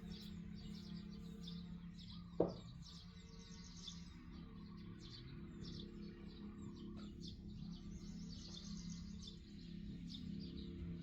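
Birds chirping repeatedly over a steady low hum, with one sharp knock about two seconds in.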